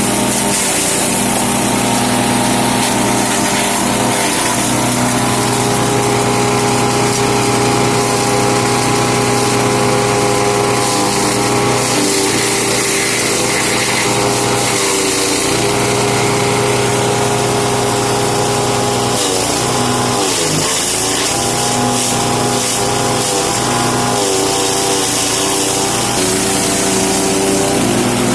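Wood chipper-shredder driven by a 13 hp engine, running steadily at speed; about twenty seconds in the engine speed dips briefly and then recovers.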